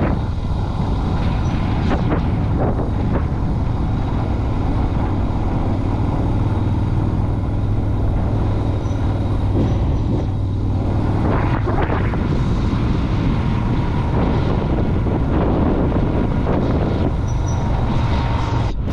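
Yamaha Virago V-twin motorcycle engine running steadily while riding, mixed with wind and road noise.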